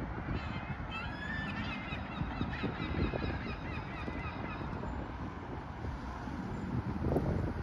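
Birds calling: a quick series of short, high calls during the first three seconds, over wind rumbling on the microphone.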